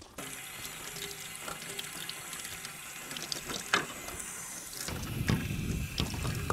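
Water running from a tap into a sink, starting suddenly just after the start, with a few light clinks and a heavier splash from about five seconds in.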